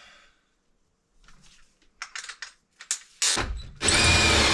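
A few small clicks and knocks, then a power drill starts a little over three seconds in and runs steadily, drilling for a plumbing vent hole up through the ceiling.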